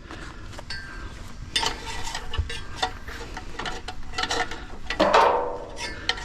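Metal parts being worked with hand tools: a run of irregular clicks and clinks, with a louder ringing metallic scrape about five seconds in.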